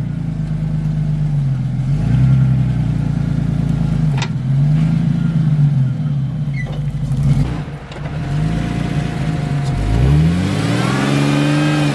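Stock 1994 Jeep Cherokee XJ engine revving up and down in about five repeated bursts as it tries to climb a rock on street tires that have no grip. A single sharp knock comes about four seconds in.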